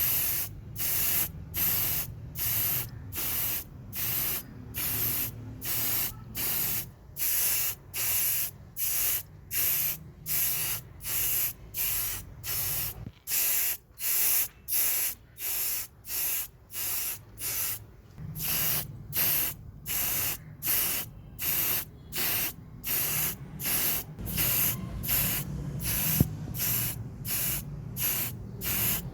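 Short hissing spray bursts repeated in a steady rhythm, about three every two seconds, as a model car's body is sprayed during restoration.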